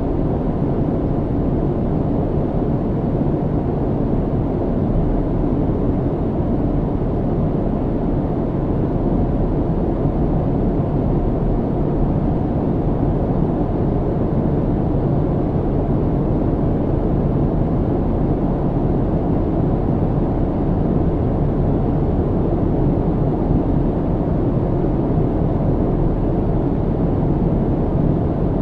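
Airliner cabin noise in flight: a steady, low rumbling roar of engines and airflow, unchanging throughout.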